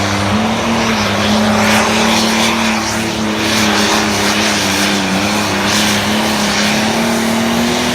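Limited pro stock pulling tractor's turbocharged diesel engine running hard through a pull, a loud steady drone that holds nearly one pitch.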